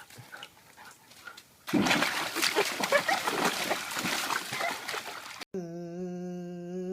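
A dog splashing in a paddling pool, with loud, choppy water noise from about two seconds in. It cuts off abruptly near the end, and a steady held hum-like tone starts.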